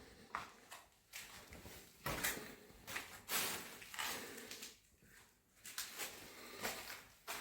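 Bricklaying work: a string of irregular scrapes and knocks, typical of a trowel working mortar and bricks being set in place.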